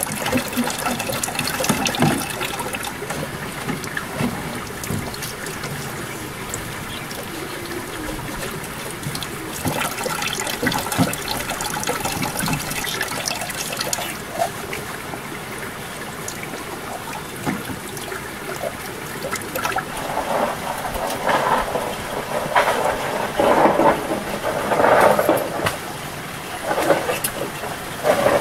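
Water running and splashing steadily, with louder irregular noises in the last several seconds.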